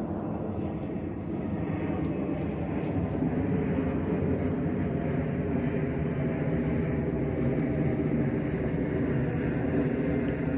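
Steady low rumbling noise, growing a little louder over the first few seconds, with a faint droning tone in it.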